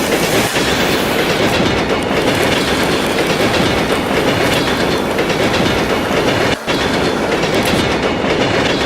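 Bachmann Thomas model train with its two coaches running along the track: a steady rattle of wheels on the rails, with a short break about six and a half seconds in.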